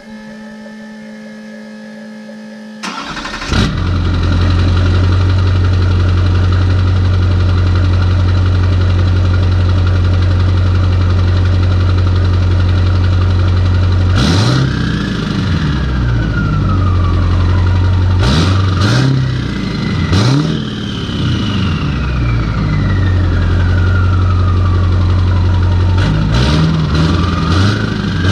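LBZ Duramax 6.6-litre V8 turbo-diesel running through a 5-inch straight-pipe exhaust. It catches with a sudden loud start about three seconds in, then idles steadily and is revved several times in the second half. After the revs, its single non-VGT 72 mm turbo whistles, falling slowly in pitch as it spools down.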